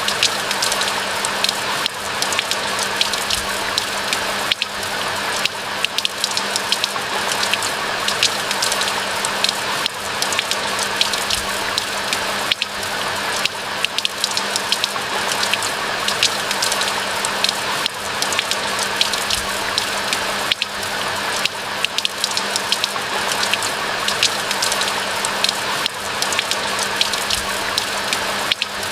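Steady rain falling, an even hiss with many individual drops ticking sharply over it.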